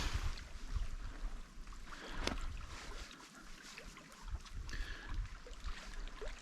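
Hands kneading a wet, sticky flour-and-water dough, making irregular soft smacks and small clicks as the dough sticks and pulls off the fingers.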